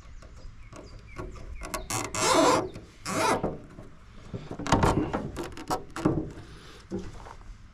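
Hands working on a stump grinder's parts: two scraping rushes a little after two and three seconds in, then a quick run of clicks and knocks.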